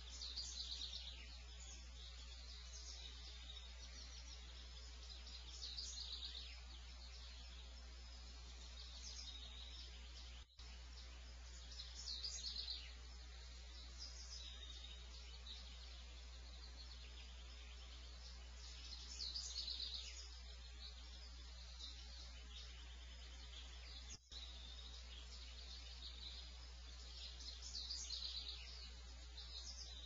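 A small bird singing short, high phrases about every six to eight seconds, over a steady low hum. The sound cuts out for an instant twice.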